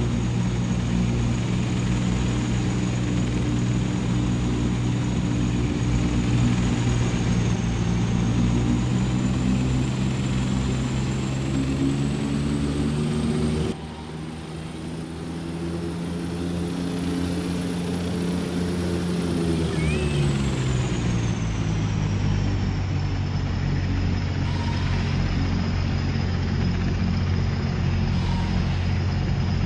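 Aeroplane engine drone: a steady low hum with a thin high whine above it. About 14 s in the loudness dips briefly, and around 20 s both the hum and the whine drop slightly in pitch and stay lower.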